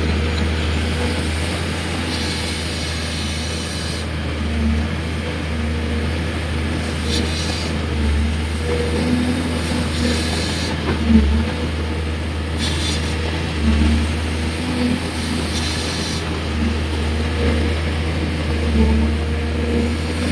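Hydraulic excavator's diesel engine running under working load, swelling in loudness every few seconds as the arm and bucket move, with several short bursts of hiss.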